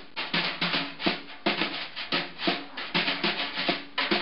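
Rhythmic percussive strikes, a few a second and unevenly spaced, each with a short ringing note.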